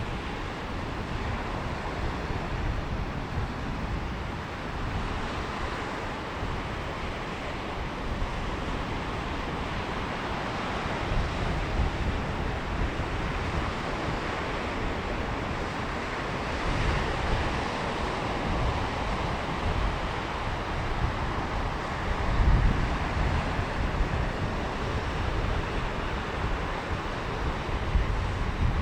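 Sea waves washing in on a beach in a steady surge of noise that swells and falls, the sea fairly calm. Gusts of wind rumble on the microphone, strongest about two-thirds of the way through and near the end.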